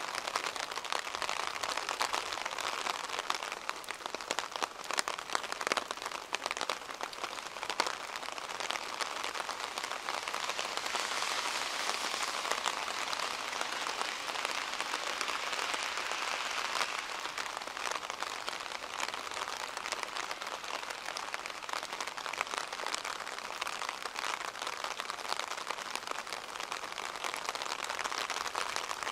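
Rain falling steadily, with many crisp close drop ticks; it is heavier for a few seconds in the middle.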